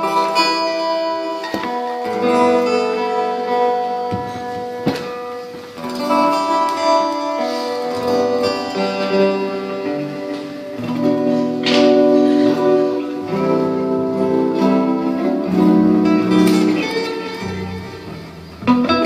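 Guitar music: a run of plucked notes and chords.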